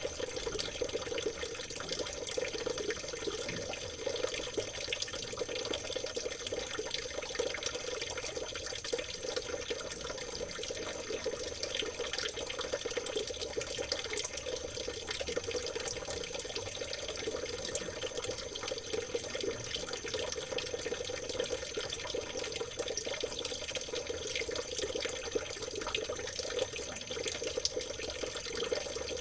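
A shallow river or stream trickling steadily, a continuous babble of small splashes.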